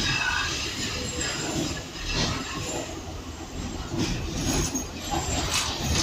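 Electric Docklands Light Railway train running along the track, heard from inside the carriage: a steady rumble of wheels on rails, with a faint high wheel squeal in the first couple of seconds.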